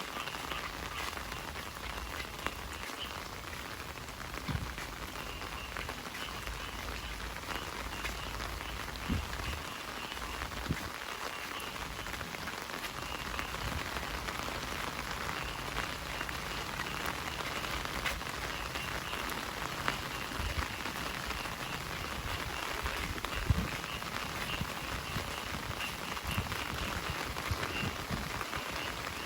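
Heavy rain falling steadily, with a scattering of louder drops striking close by. A faint high trilling chorus pulses quietly underneath.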